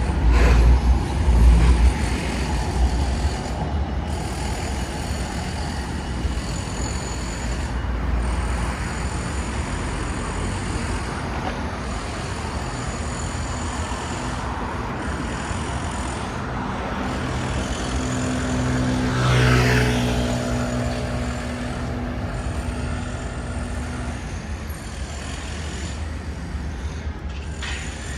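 Street traffic: a steady hum of road noise, with a heavy low rumble in the first couple of seconds. About two-thirds of the way through, a motor vehicle passes close, its engine note swelling and fading.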